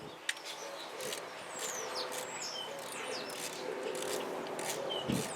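Small birds chirping, a string of short high chirps with several sharp faint clicks in between.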